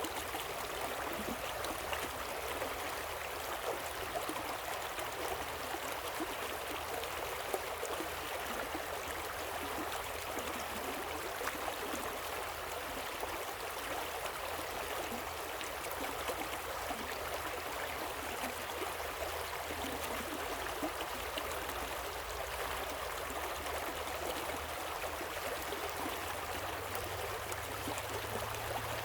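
Steady, even rush of flowing water from a waterfall and river.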